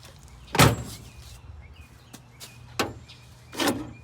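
Three sharp knocks or clunks, the loudest about half a second in, with small clicks between them, over a steady low hum.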